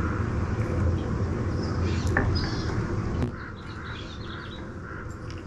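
Birds calling and chirping over a steady low rumble that drops away about three seconds in.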